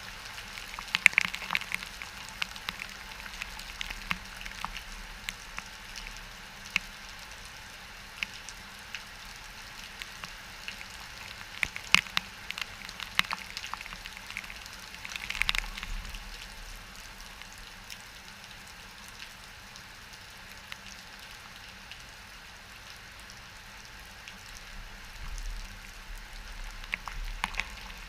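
Rain from a hurricane rain band falling on hard surfaces: a steady hiss dotted with sharp drop impacts, a few of them much louder than the rest.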